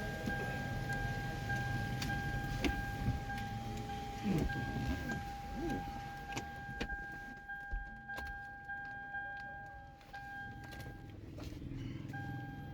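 Steady electronic beep tone from the car, with short breaks and a longer pause near the end. Scattered sharp clicks and a low hum sound underneath it.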